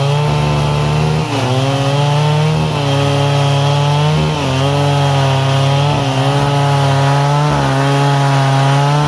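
Stihl MS 382 two-stroke chainsaw running at high revs while cutting wood. Its pitch dips briefly about every second and a half as the chain bites under load, then recovers.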